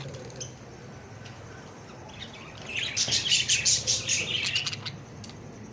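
Parrot giving a rapid run of shrill, high chirping calls, starting about two seconds in and lasting about two and a half seconds.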